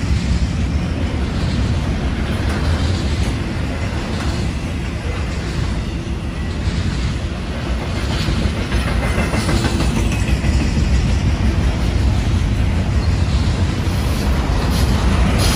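Double-stack container well cars of a Union Pacific intermodal freight train rolling past: steel wheels on the rails making a steady low noise, a little quieter around the middle and building again toward the end.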